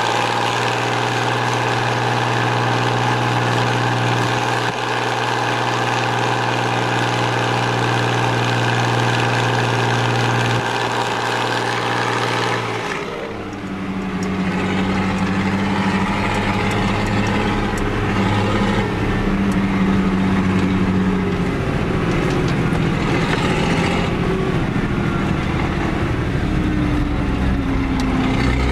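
Fiat 110-90 tractor's six-cylinder diesel engine running at steady revs under way. About 13 seconds in the sound drops briefly, then the engine carries on at lower revs whose pitch wavers slightly.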